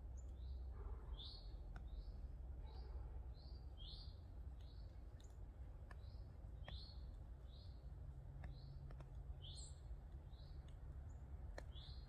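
Small birds chirping: a steady run of short, high chirps, about one or two a second, some nearer and louder than others, over a low rumble and a few faint clicks.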